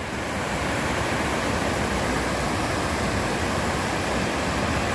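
Steady rushing noise of water pouring over a dam.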